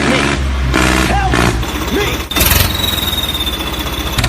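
Tractor engine sound running steadily at low speed. Short pitched cries are mixed in over the first half. About halfway through the sound changes suddenly to a steady high whine over the engine.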